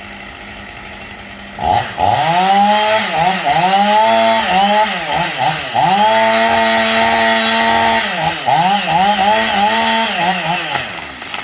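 Two-stroke chainsaw engine revved repeatedly: the throttle is blipped up and down many times and held at high revs for a couple of seconds around the middle. A quieter steady tone comes first, and the revs settle back down near the end.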